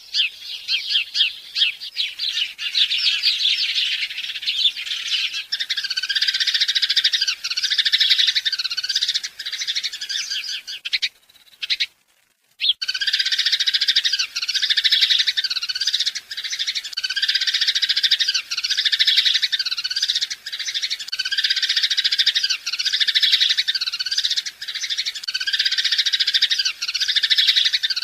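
Many birds chirping together in a dense, continuous chorus, with one repeated call about once a second. The sound cuts out for about a second and a half near the middle, then resumes.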